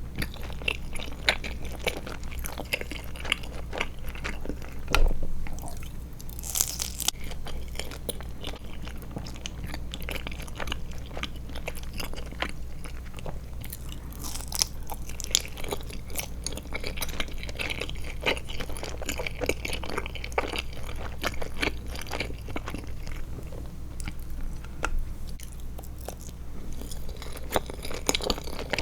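Close-miked chewing of Trolli Glotzer gummy eyeball candies: steady, wet, irregular clicking and squelching bites, with a louder knock about five seconds in.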